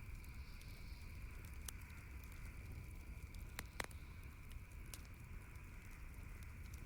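Campfire crackling: scattered sharp pops and snaps, the loudest about midway, over a steady low rumble of the burning fire.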